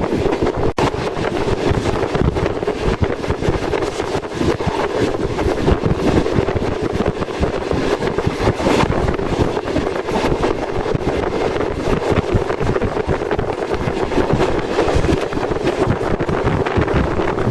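Wind buffeting the microphone over the steady running noise of a passenger train travelling at speed.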